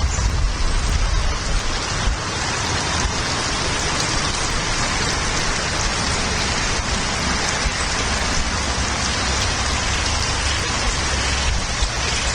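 Steady rain falling, with a low rumble of wind on the microphone.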